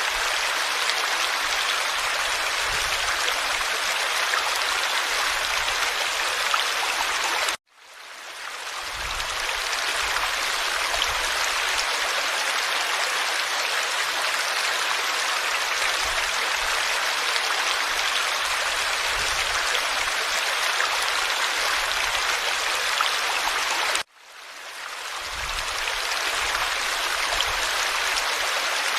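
Forest stream flowing, a steady rush and babble of water. Twice the sound cuts out suddenly and fades back in over a second or two.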